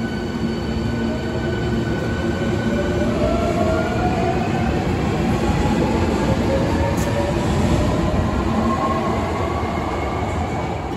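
Hankyu electric train pulling out of an underground station, accelerating with a steady rumble and several motor tones that climb in pitch as it gathers speed.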